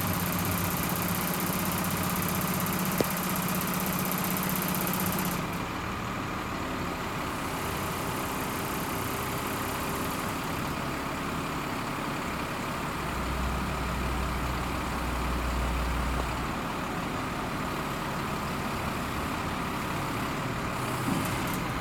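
Engine of a 1996 Ford LN7000 crane truck running steadily. A steady hum stops about five seconds in, a deeper rumble swells for a few seconds past the middle, and there is a single sharp click near the start.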